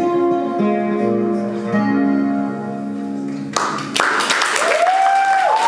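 Acoustic guitar ringing out the last notes of a song, then the audience breaks into applause about three and a half seconds in.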